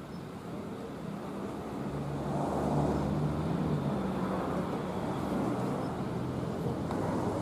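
A motor vehicle's engine running, getting louder about two seconds in and staying steady.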